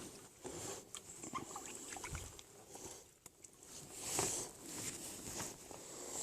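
Irregular rustling with light clicks and short knocks, handling noise in a small boat, swelling louder about four seconds in.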